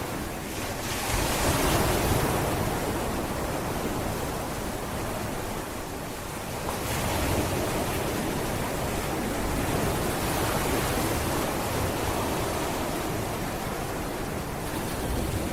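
Sea waves washing onto a beach, with a steady rush of surf that swells about a second and a half in and again about seven seconds in, then eases off. Some wind buffets the microphone.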